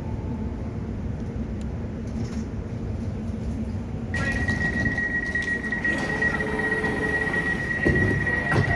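Class 701 electric multiple unit running, heard from inside the carriage as a steady rumble and hum. About halfway through, a steady high-pitched tone sets in abruptly and holds, and a few knocks come near the end.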